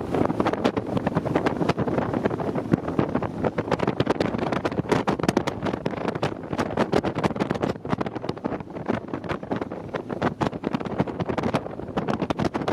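RIB speedboat running under way, its engine and hull noise mixed with wind buffeting the microphone in rapid, irregular gusts.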